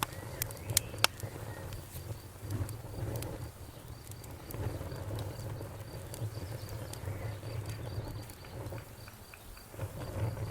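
Campfire burning with a low steady rumble and sharp wood crackles and pops, several in the first second and a few fainter ones later. Over it runs a high, pulsing insect trill.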